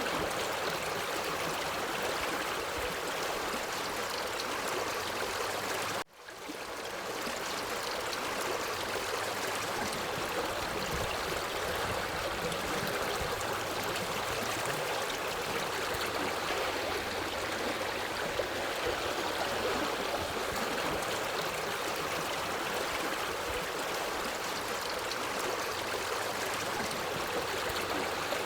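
Steady rushing and gurgling of a forest stream. About six seconds in the sound cuts out for an instant and swells back in over about a second, the restart of a looped recording.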